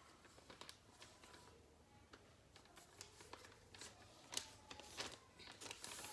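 Faint rustling and crackling of a sheet of calendar paper being folded and creased into a paper airplane: a string of short, crisp crinkles, with one sharper crackle about four seconds in.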